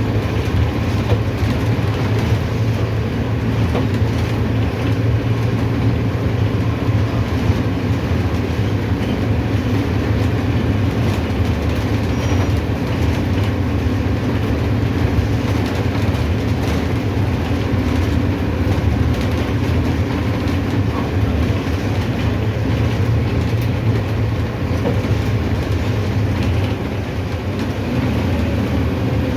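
Mercedes-Benz OF-1519 city bus under way: steady low diesel engine drone mixed with road and body noise, easing slightly near the end.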